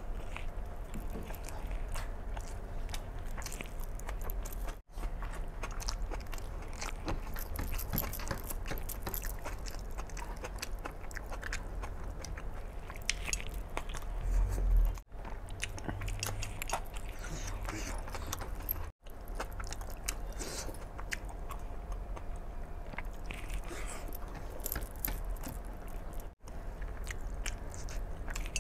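A person chewing and biting a mouthful of rice and mutton eaten by hand, a steady run of small mouth clicks and crunches. The sound cuts to silence for an instant four times.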